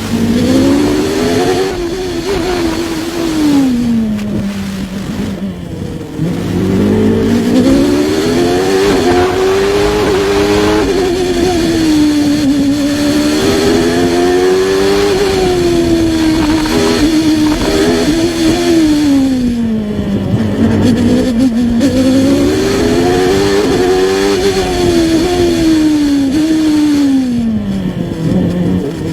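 Onboard sound of a 1993 Formula One car's engine at racing speed, its pitch climbing and falling in long sweeps again and again as it revs up through the gears and drops back under braking.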